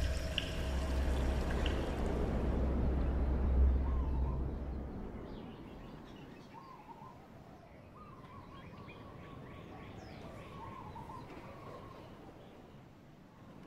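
A deep low rumble fades out over the first five seconds. Faint birds then call in short, wavering phrases, with a few high chirps, over a quiet background.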